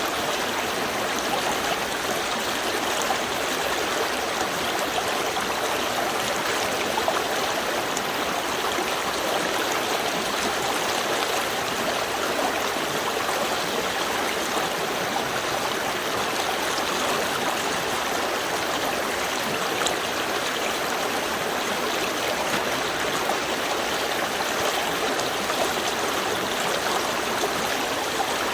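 Small river stream flowing calmly, a steady even rush of water with light trickling and gurgling.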